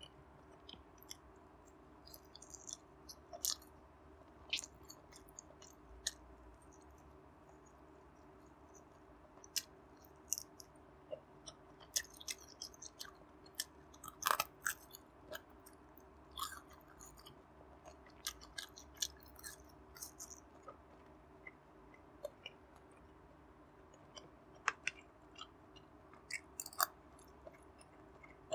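Close-miked chewing of food: irregular wet smacks and sharp clicks from the mouth, busiest around the middle.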